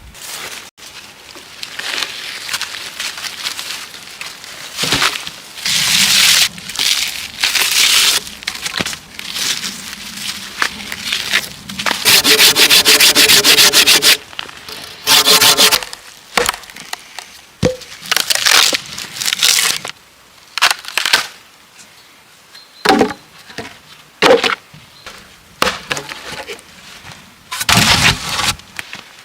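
Wood being worked by hand: a series of rasping, sawing-like strokes with sharp cracks and knocks between them, including a fast run of strokes about halfway through.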